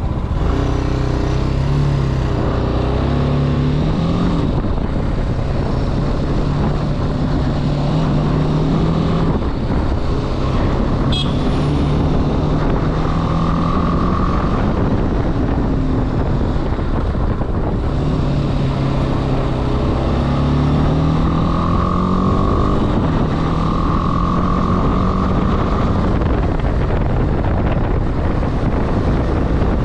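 Motorcycle engine running on the move, its pitch climbing and dropping several times as it accelerates and shifts gears. Heavy wind noise on the microphone runs underneath.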